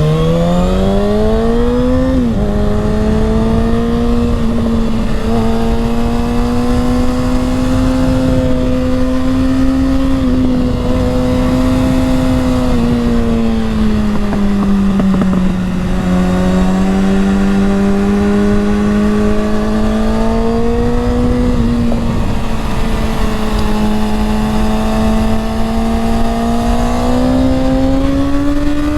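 Motorcycle engine running under throttle, heard from the bike with heavy wind noise on the microphone. The engine note climbs over the first two seconds and drops sharply at a gear change, holds steady, sags about halfway through, then climbs again near the end.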